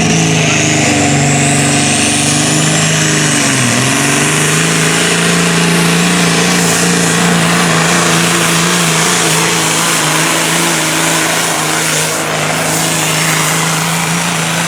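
Pro stock semi's turbocharged diesel engine pulling hard at high revs under load, with a rising turbo whistle. The revs dip briefly about four seconds in and come straight back.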